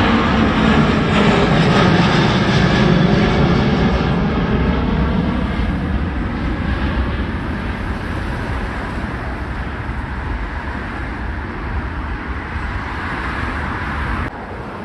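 Jet airliner's engines at takeoff power as it climbs out after departure, loud at first with whining tones that fall in pitch as it passes, then easing into a fading rumble. The sound drops suddenly just before the end.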